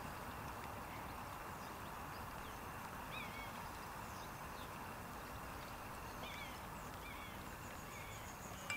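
Small birds chirping now and then over a steady background hiss, with a sharp click right at the end.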